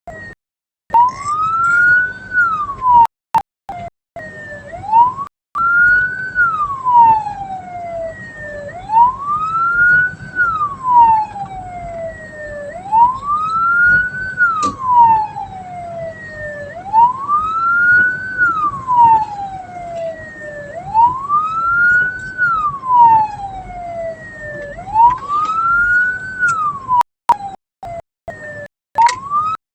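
Vehicle siren wailing, rising and falling slowly in a repeating cycle about every four seconds. The sound cuts out briefly a few times near the start and near the end.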